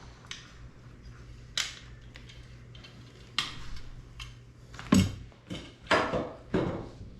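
Small hard drone parts being handled and set down: a run of sharp clicks and clatters, the loudest about five seconds in, with several more close together near the end, over a faint steady hum.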